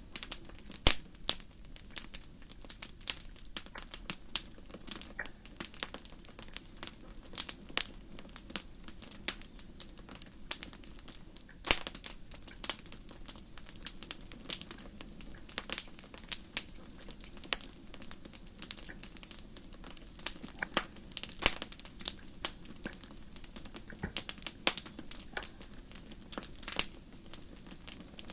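Wood fire crackling: irregular sharp pops and snaps over a steady low hiss, a few louder cracks among them.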